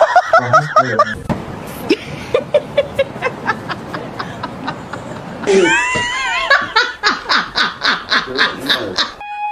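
A person laughing hard in rhythmic bursts, about three or four a second. Near the end the sound cuts suddenly to a steady high-pitched tone.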